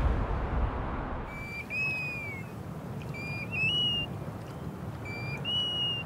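A bird's clear whistled call, heard three times over a low steady outdoor rumble; each call holds one note, then slides or steps up in pitch. It opens on the fading tail of a whoosh.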